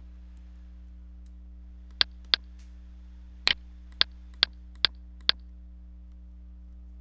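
Seven sharp, separate clicks at an uneven pace over a steady low electrical hum, sounding like a computer being clicked and keyed.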